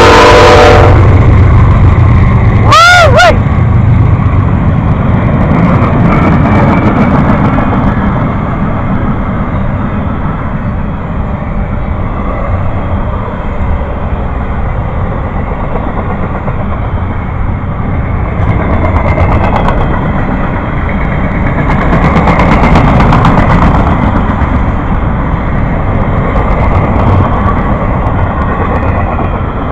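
A train passing close by: a steady low rumble of the moving train, with runs of rapid clicking from its wheels, just after a horn blast cuts off at the very start.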